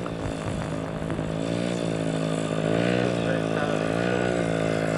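Motorcycle engine running, its revs swelling and dropping about three times.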